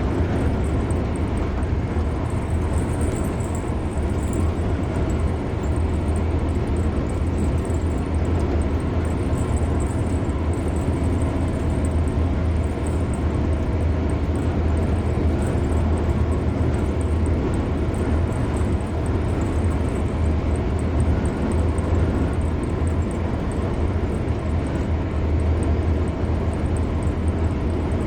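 Car driving steadily at highway speed: an even rumble of tyre and road noise with engine hum, unchanging throughout.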